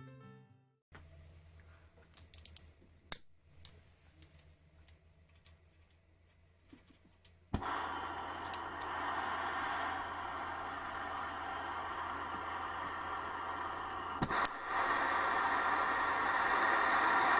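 A gas burner is lit with a sharp click, then its flame hisses steadily. The hiss steps up louder after a second click near the end. A low steady hum lies underneath.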